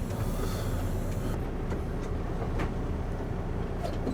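Steady low rumble of a semi truck running down the road, engine and road noise together. A high hiss drops away a little over a second in.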